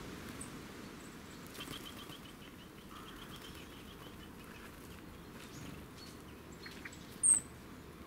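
Small garden birds calling: a fast run of short, evenly spaced notes lasting a couple of seconds, then a single sharp, high-pitched call near the end, the loudest sound, over a steady low background hum.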